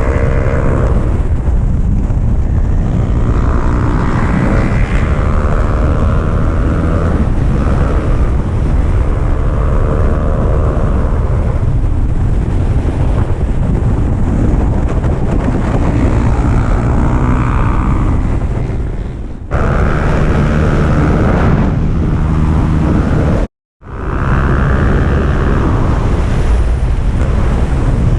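Small sport motorcycle engine revving up through the gears, its note climbing and then dropping at each shift, over heavy wind rush on the microphone. The sound cuts abruptly twice, once with a split-second gap.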